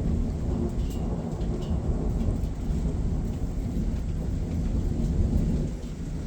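Thunder rumbling low and steadily through rain, easing off near the end.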